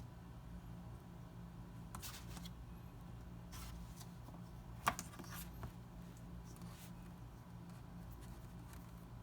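Hands handling the packaging and parts of a Xiaomi Mi Band 4 fitness band: soft rustles and a few light clicks, the sharpest about five seconds in. A steady low hum runs underneath.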